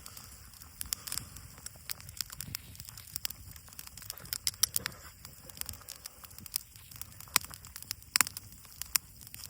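Campfire crackling: irregular sharp snaps of burning wood over a faint hiss, with a couple of louder snaps near the end.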